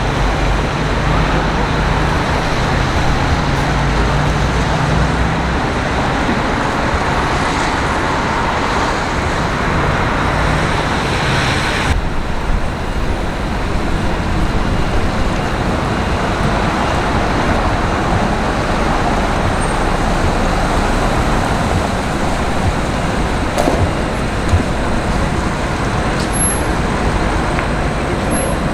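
City road traffic: vehicle engines and tyres running continuously, with a low engine hum in the first few seconds. The sound changes abruptly about twelve seconds in.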